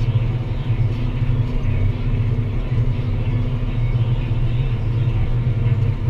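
Deutz-Fahr Agrotron 165 MK3 tractor's six-cylinder diesel running steadily under load while pulling a plough.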